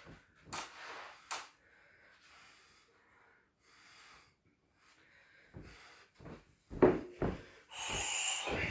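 Shin kicks striking a hard rubber car tyre on a boxing stand: a series of dull thuds, the loudest about seven seconds in, with the fighter's hissing exhales on the kicks near the end.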